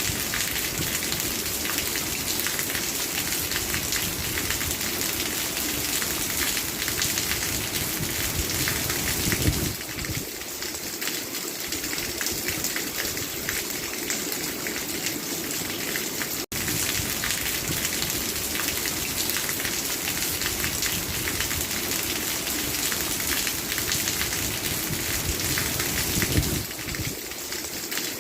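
Steady rain falling, a dense even hiss of drops on surfaces. It eases slightly about ten seconds in and again near the end, with a momentary cut-out just past halfway.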